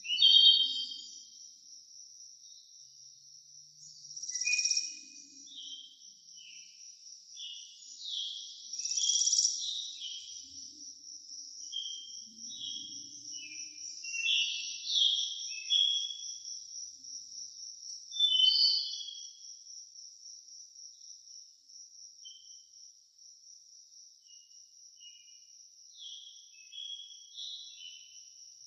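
Forest ambience: a steady high-pitched insect trill, like crickets, runs throughout, while birds chirp and call over it in short bursts, loudest right at the start and thinning out toward the end.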